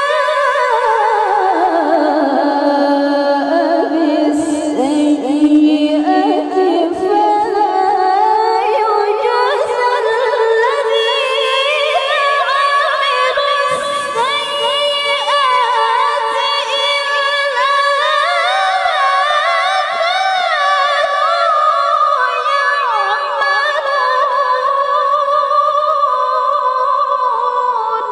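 A woman's high, clear voice in melodic Quran recitation (tilawah): one long unbroken phrase with wavering, ornamented melisma. It drops low in the first couple of seconds, then climbs step by step back to a high pitch and fades out at the end.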